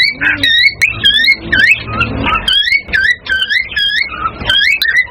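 Cockatiels giving a fast, unbroken run of short whistled chirps, many sliding up or down in pitch: cockatiel breeding-season calls.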